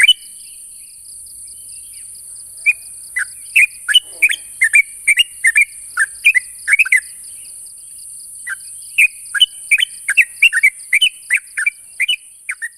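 Yellow-vented bulbul (trucuk) singing its challenge call to rival birds: quick runs of short, sharp, falling notes, several a second, broken by pauses of a second or two. A steady high hiss and a faint pulsing buzz run underneath.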